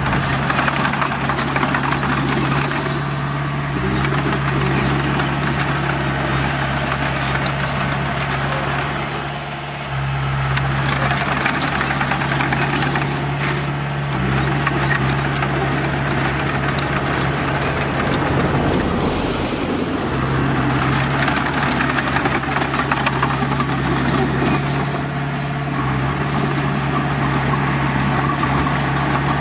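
Bulldozer's diesel engine running steadily while the machine works, its note sagging briefly twice.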